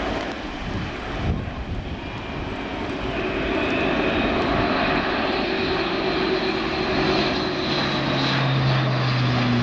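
Airbus A400M's four turboprop engines droning in flight, growing louder about three seconds in, with steady propeller tones that drop slightly in pitch near the end.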